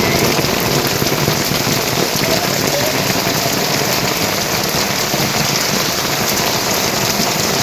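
Heavy rain falling steadily: a dense, even hiss of countless drops hitting surfaces.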